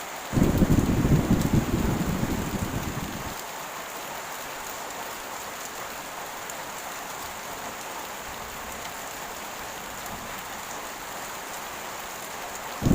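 Heavy rain falling steadily. A clap of thunder breaks just after the start and rumbles low for about three seconds before fading, and another breaks right at the end.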